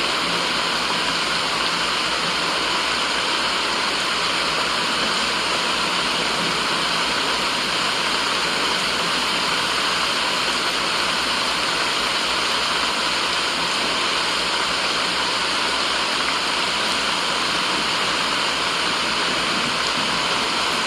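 Steady white noise: an even rushing hiss that holds the same level throughout.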